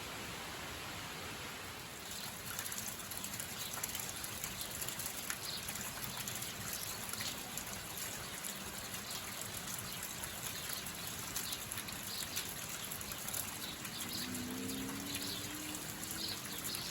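Rain falling, a steady patter of many small drops that grows denser about two seconds in.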